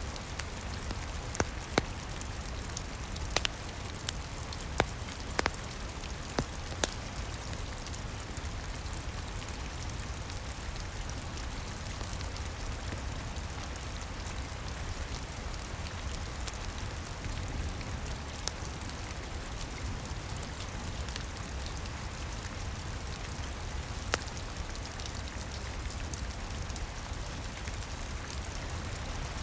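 Steady rain over a low rumble, with a wood fire crackling: sharp pops come several times in the first few seconds and once more near the end.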